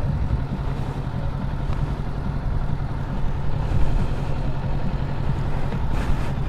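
Kawasaki Ninja 500 motorcycle's parallel-twin engine idling steadily.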